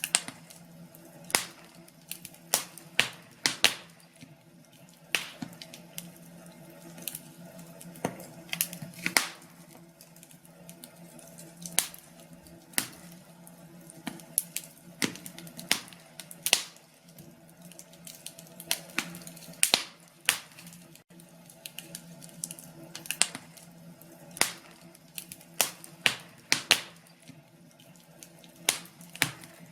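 Wood fire crackling: irregular sharp pops and snaps, a few each second, over a faint steady low hum.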